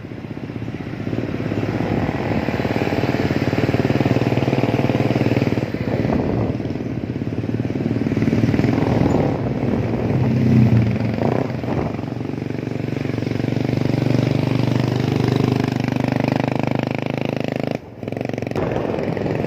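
Small motorcycle engine running steadily, as when riding along. It cuts out for a moment near the end.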